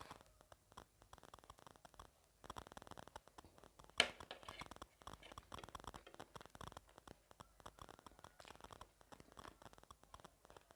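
Close-miked mouth sounds of someone chewing gilo chatpate, a wet spiced puffed-rice snack: irregular clusters of small crackling clicks, with one sharp click about four seconds in.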